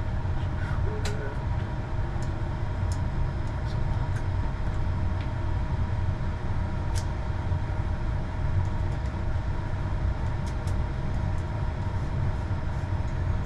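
Steady machine hum over a low rumble, holding two constant tones, with a few faint ticks scattered through it.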